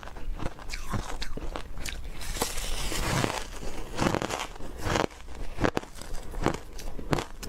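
Refrozen powdery ice being bitten and chewed close to the microphone: a quick, irregular run of soft crunches.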